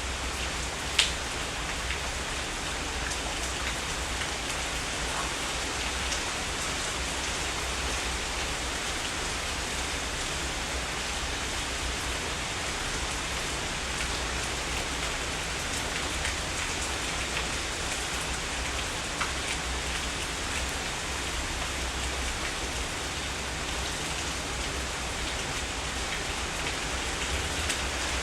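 Heavy rain falling steadily, with the patter of drops on surfaces and a few sharper drip ticks, the loudest about a second in.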